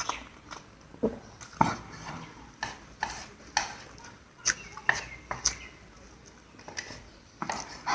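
Close-miked eating of spicy instant noodles: irregular slurps, mouth smacks and chewing, several loud and sudden, a few every second or two.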